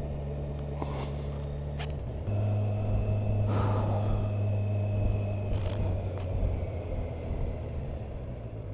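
Kawasaki Versys 1000 motorcycle engine running on the road. About two seconds in its note drops and gets louder, as when the rider opens the throttle, then eases off.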